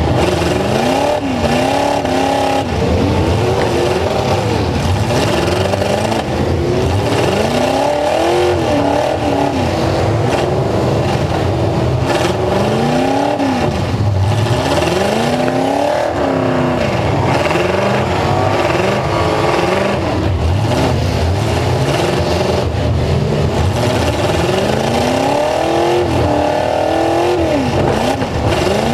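Full-size pickup truck engines revving hard, rising and falling in pitch over and over, over a steady loud rumble.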